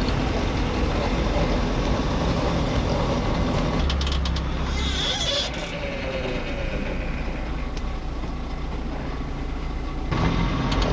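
A car driving, with a steady engine and road rumble. A few clicks and a short hiss come about four seconds in, and the engine note slides down after them.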